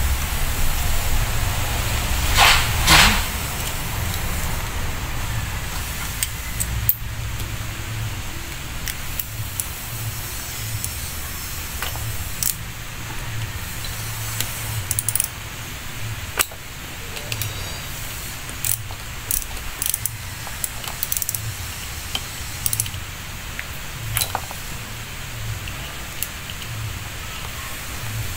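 Scattered metallic clicks and clinks of tools and small parts as a PT fuel pump is taken apart, over a steady low rumble. Two short, louder hisses come about two to three seconds in.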